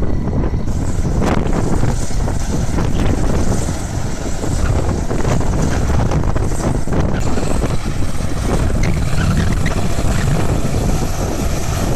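Bulldozer's diesel engine running steadily, with wind rumbling on the microphone.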